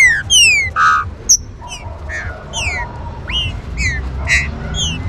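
Green-winged saltators (trinca-ferro) calling: a rapid run of short, high whistled notes, each sweeping down in pitch and often overlapping, with a few short harsh buzzy notes between them.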